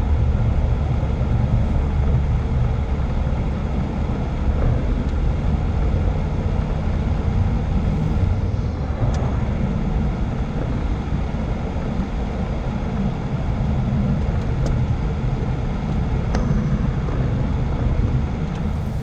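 Steady rumble of a Jeep on the move: engine, tyre and wind noise at an even speed, with a few faint ticks.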